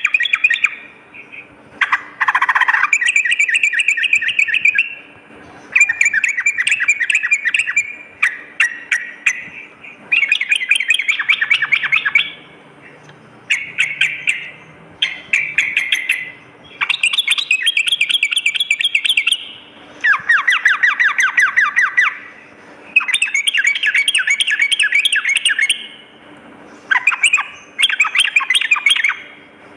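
Yellow-vented bulbul (trucukan) singing: rapid chattering trilled phrases, each two to three seconds long, repeated one after another with short pauses between.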